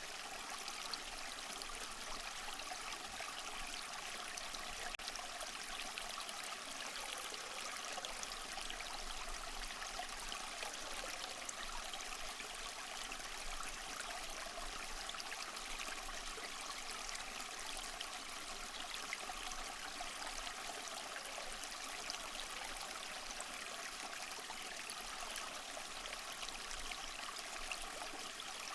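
Small waterfall over mossy rocks, water splashing and trickling in a steady, unbroken rush.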